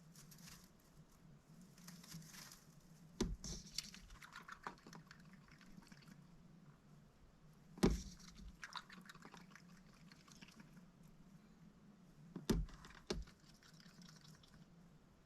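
A mallard duck dabbling and splashing faintly in its water dish, with several sharp clicks or taps among the splashing.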